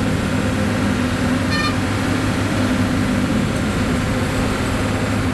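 A steady engine drone with a low hum, and a brief high-pitched tone about one and a half seconds in.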